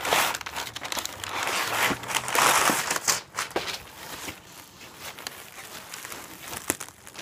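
Packaging being crinkled and torn open by hand as a boxed BMX wheel is unwrapped. It is loudest about two to three seconds in, then turns to softer rustling with a few sharp clicks.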